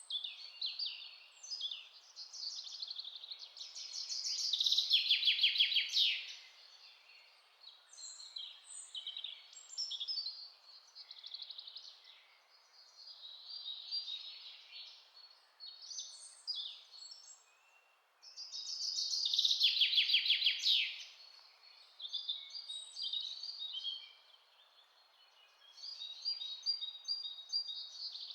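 Songbirds singing and chirping in quick, varied phrases, with a louder rapid trill about five seconds in and again near twenty seconds, over a faint steady hiss.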